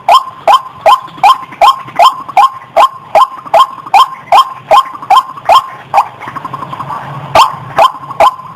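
White-breasted waterhen (ruak-ruak) calling a loud, repeated "kwak" about three times a second, used as a trapping lure call. The calls break off about six seconds in and resume about a second later. A thin steady tone runs underneath.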